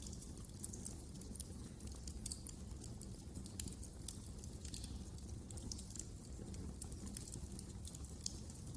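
Wood fire crackling: many irregular sharp snaps and pops over a low, steady rumble of burning logs.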